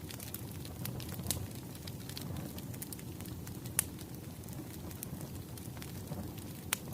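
Wood fire crackling: a steady low rumble with scattered sharp pops, the loudest about four seconds in and again near the end.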